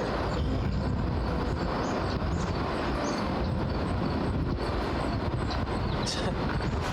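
Wind buffeting the microphone outdoors, a steady low rumble with no break.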